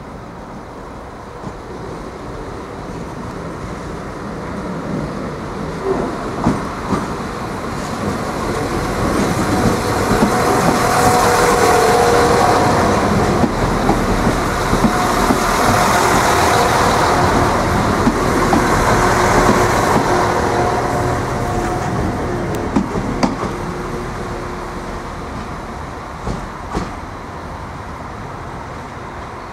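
Irish Rail 22000 class diesel multiple unit running past, the sound of its underfloor diesel engines and wheels growing louder to a peak in the middle and fading as it moves away. Wheels click over rail joints and points now and then.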